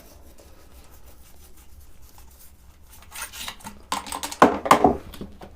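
Rubbing and scraping on the greasy sewing machine as solvent is worked into the grease: quiet at first, then a few short scrubbing strokes in the second half.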